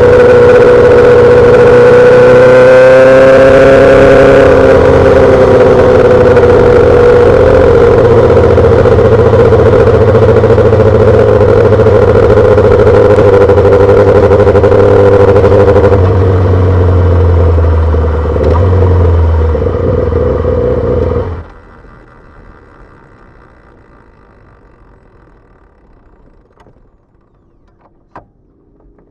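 2008 Yamaha R6's inline-four engine through a full SC-Project exhaust, running steadily and loud, with a brief rise in pitch a few seconds in. About twenty seconds in the engine sound stops abruptly, leaving only a few faint clicks.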